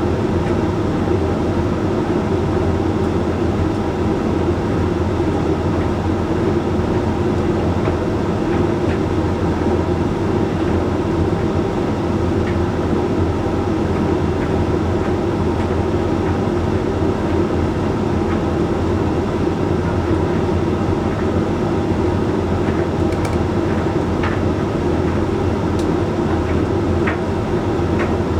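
Hoover Link X Care condenser tumble dryer running steadily mid-cycle: the drum motor and fan hum as the load of whites turns, with a few faint ticks near the end.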